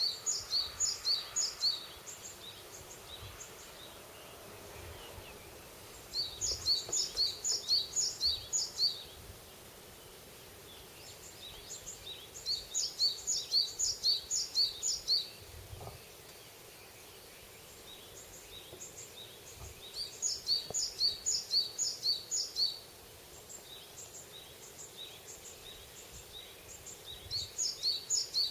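A songbird singing in a forest, repeating a phrase of quick, high two-note chirps about five times a second. Each phrase lasts two to three seconds and comes back every six or seven seconds, over a faint steady background hiss.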